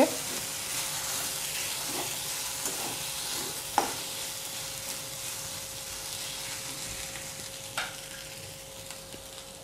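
Sliced onion, fennel seeds and grated dry coconut sizzling in oil in a kadhai while a metal spatula stirs them; the sizzle slowly fades. The spatula knocks sharply against the pan twice, about four seconds in and again near the end.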